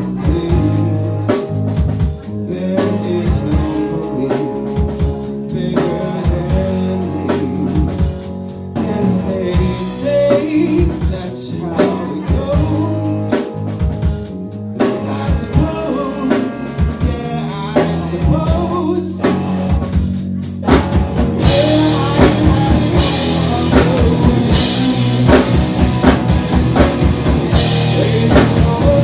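Live rock band playing, with singing, electric guitar and drum kit; about two-thirds of the way through the band gets louder, with crashing cymbals.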